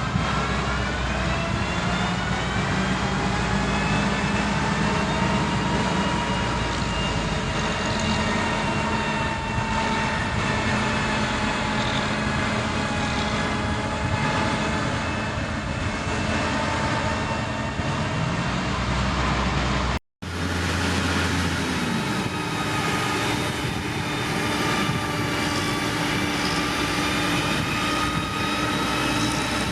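Diesel engines of heavy construction machinery running steadily, their pitch slowly rising and falling with the load. About two thirds of the way in the sound cuts out for a moment and resumes with a different engine note.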